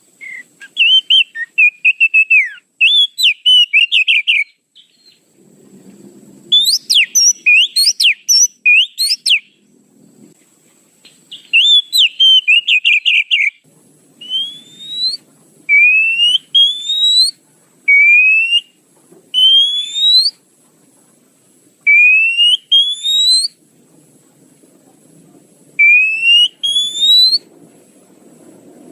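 Oriental magpie-robin (kacer) lure call: bursts of rapid, varied chattering notes, then a rising whistle repeated about every two seconds.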